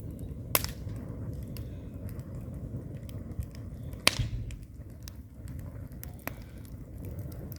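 Wood fire burning in a fireplace: a low steady rumble of flames with scattered crackles, and two sharp pops, about half a second in and about four seconds in.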